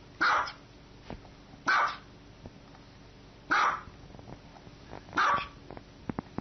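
A dog barking: four single barks, each short and evenly spaced about one and a half to two seconds apart.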